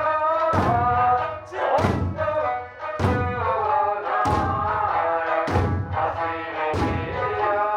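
Okinawan eisa music: a sung melody with sanshin accompaniment, and a big taiko drum struck on the beat about once every 1.2 seconds.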